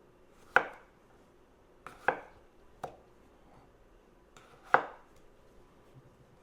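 Knife chopping potatoes on a cutting board: a handful of sharp, irregularly spaced chops, three of them loud and a couple fainter.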